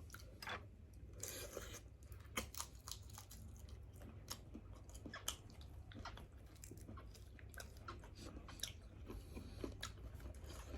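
Faint close-up chewing and crunching of grilled seafood, with many small irregular clicks and bites.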